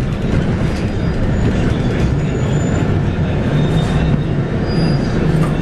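Scania K230UB bus heard from inside while under way: its 8.9-litre five-cylinder Scania DC9 diesel runs with a steady low drone over road rumble and cabin rattles.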